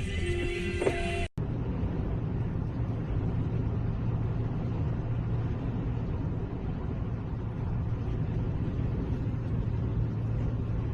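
Steady low rumble of a moving car, the engine and road noise picked up by a dashcam, starting after a brief cut-out about a second in.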